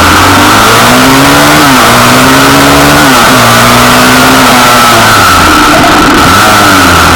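Pitbike's small single-cylinder engine under throttle, its pitch climbing and then dropping sharply twice as it changes gear, then falling away as it slows near the end.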